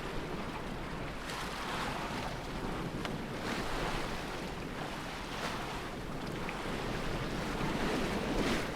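Sea water washing against a sailing yacht's hull under way, in surges every second or two, with wind blowing on the microphone.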